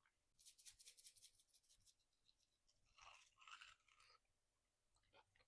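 Close-miked eating: a quick run of crisp crunches from about half a second in, then softer, wetter chewing a couple of seconds later.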